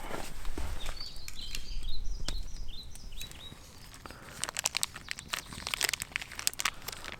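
A small bird chirping in a quick series of short notes, followed from about four seconds in by a run of dry crackling clicks.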